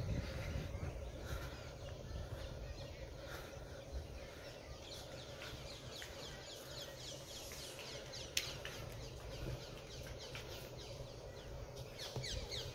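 Birds calling in a rapid series of short, falling chirps that thicken from about five seconds in, over a steady low background hum, with a single sharp click partway through.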